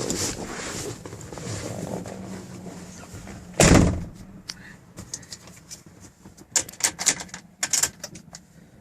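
Pickup truck door slamming shut once, sharply and loudly, about four seconds in, over the Ford 5.4 L Triton V8 running at idle. After the slam the idle is quieter and a few sharp clicks and taps follow near the end.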